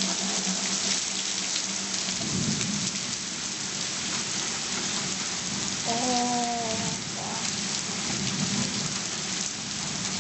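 Heavy rain falling steadily in a thunderstorm, with low rumbles of thunder. About six seconds in, a short wavering call rises above the rain.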